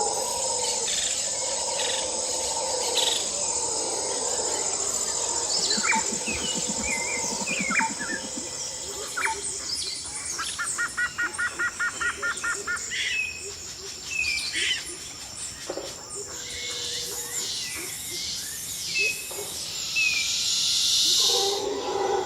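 Birds chirping and calling against a steady high insect buzz, with one bird repeating a quick call about five times a second for a couple of seconds near the middle.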